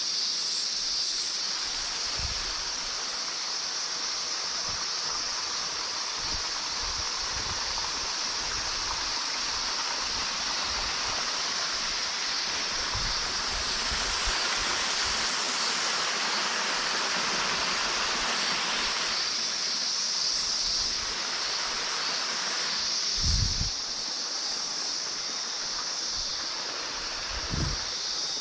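Steady rush of falling water from a waterfall, with a constant high-pitched hiss over it that swells for several seconds midway. Two dull low thumps come near the end, the louder one about five seconds before the end.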